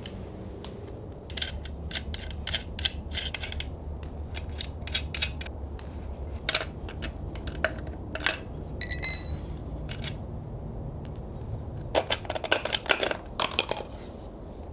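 Metal hand tools clinking and clicking during work on the car, with quick runs of clicks near the start and near the end and one tool ringing briefly about nine seconds in. A steady low hum runs underneath.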